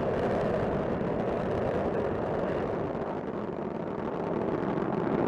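Steady roar of Space Shuttle Discovery's rocket engines climbing shortly after liftoff. The noise dips slightly in the middle and swells again near the end.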